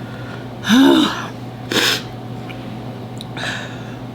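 A woman reacting to the burn of an extremely hot chili chip lets out a short pained groan, then a sharp, noisy sneeze-like exhalation about a second later. A steady low hum runs underneath.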